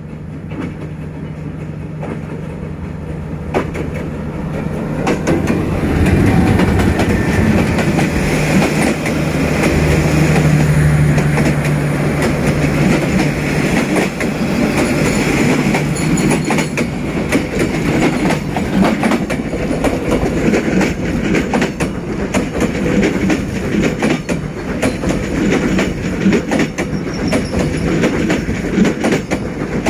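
D19E diesel-electric locomotive approaching and passing with a steady low engine tone, growing louder over the first several seconds. After that, the passenger coaches roll by with a continuous clickety-clack of wheels over the rail joints.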